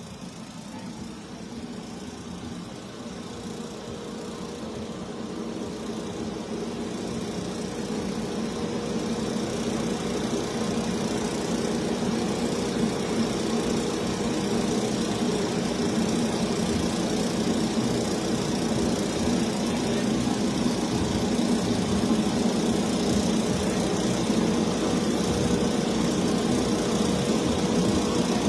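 Drag-racing car engines idling with a steady, lumpy rumble. It grows louder over the first ten seconds or so as the cars come closer, then holds steady.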